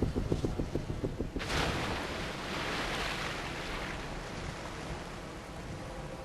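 Failing helicopter's rotor chopping rapidly, about seven beats a second. About a second and a half in, the chop stops with a sudden rush of noise, the helicopter going down into the sea, which fades into steady surf.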